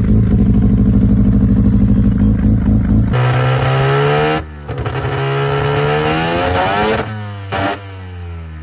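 Electronic music with a steady pulsing beat for about three seconds, then a cut to a Mazda 12A rotary engine revving. It is blipped up and let fall back several times, with a couple of sudden drops in revs.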